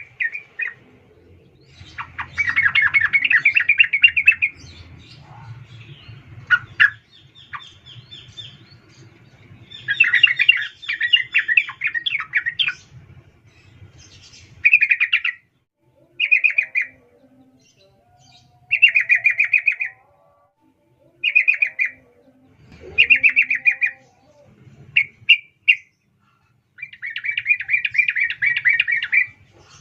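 Female yellow-vented bulbul (trucukan) calling to attract a male: short chattering bursts of rapid notes, each about a second long, repeating every two to three seconds, with longer runs of about two seconds near the start and near the end.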